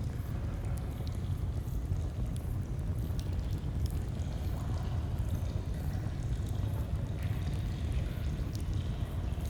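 Flowing stream, a steady low rushing of water, with the scattered sharp crackles of a campfire over it.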